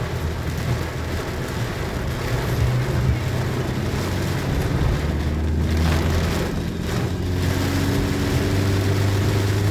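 A car driving through heavy rain: a steady low engine and road drone under an even hiss of rain.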